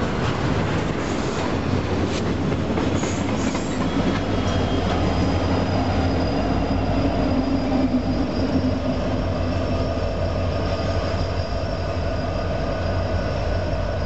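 Freight train passing close by: steady rumble and clatter of wheels on the rails, with diesel locomotives at the rear of the train going by in the middle, their engine drone strongest then. A thin high wheel squeal joins in about halfway through and carries on as the train moves away.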